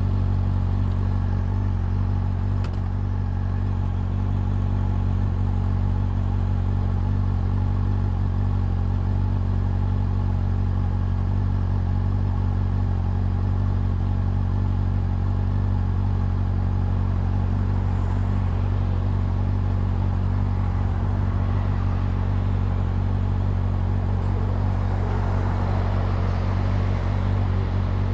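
Exhaust of a Honda CB400 Super Four's inline-four engine running at a steady engine speed, with no revving. A rushing noise swells up near the end.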